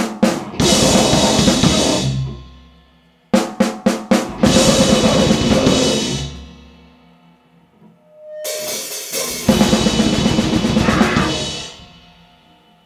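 Noisecore band blasting on a drum kit with distorted noise: three very short bursts, each a couple of seconds long and stopping abruptly. The first two open with a few quick sharp hits, and the third swells up before it hits.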